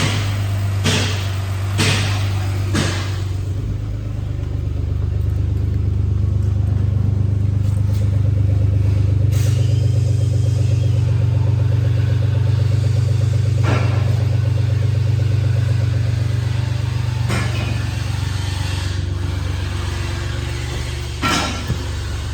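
2005 Lincoln LS 3.0-litre V6 engine running steadily, getting a little louder about four seconds in, with a few sharp clicks over the top.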